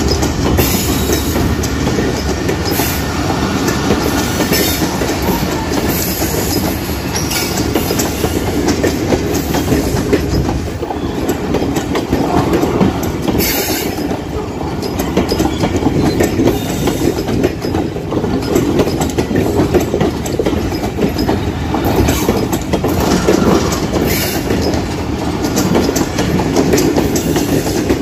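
Train cars rolling past at close range, their wheels clattering steadily over the rail joints.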